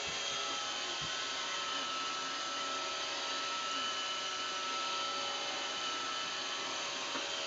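Roomba robot vacuum running with a steady whir and a few constant high whining tones.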